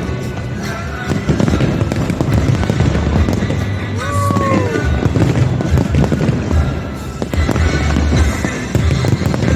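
Fireworks display, many bursts going off in quick succession with deep bangs, over loud music. A single falling tone sounds briefly about four seconds in.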